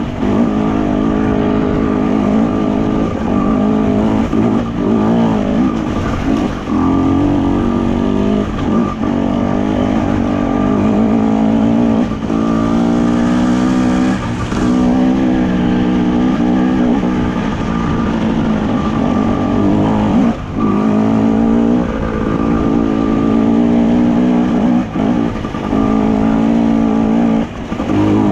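Enduro motorcycle engine being ridden off-road, its pitch rising and falling with the throttle and dropping off briefly every few seconds.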